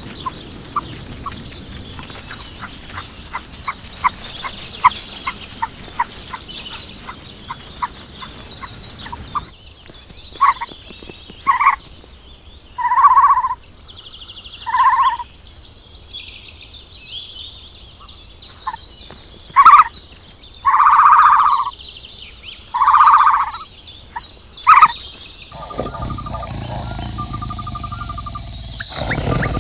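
Animal calls: a rapid, even run of chirps, then a series of loud calls, each about half a second to a second long. A different, steadier sound comes in near the end.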